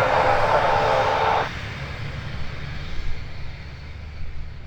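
Cessna Citation II jet running, a steady whine over a rush that cuts off abruptly about a second and a half in, leaving a low rumble that fades.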